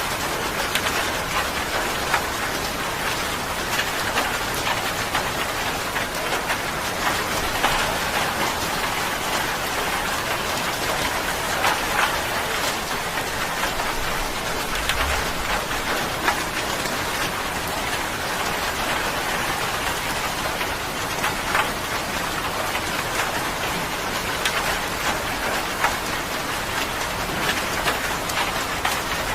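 Steady rain falling, an even hiss with many individual drops hitting sharply through it.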